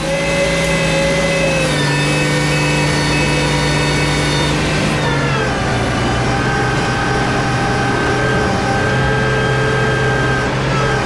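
Peterbilt winch truck's diesel engine running steadily. Its pitch steps down twice, about two and five seconds in.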